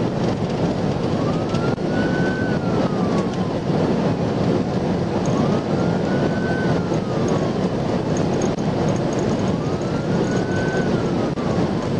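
Police car siren on its slow wail, rising and falling three times, heard from inside the patrol car over heavy road, wind and engine noise at high pursuit speed.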